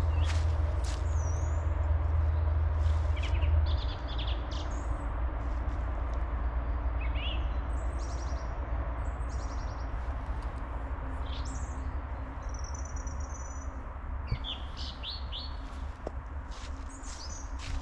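Small songbirds chirping and calling in short, high notes and brief trills, scattered through, over a steady low rumble that is louder for the first four seconds.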